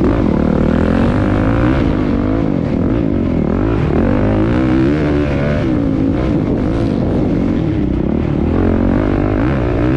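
Several motocross bikes racing, their engines revving up and down in overlapping waves over a steady low drone.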